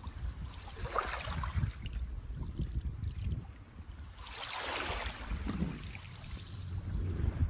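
Small waves washing up on a sandy beach, one wash about a second in and a longer, louder one near the middle, over a steady low rumble of wind on the microphone.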